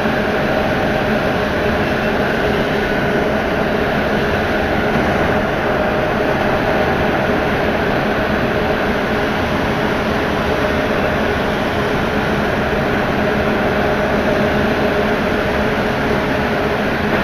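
Steady running noise inside an MP89CA rubber-tyred metro car travelling between stations, with a faint steady whine in it.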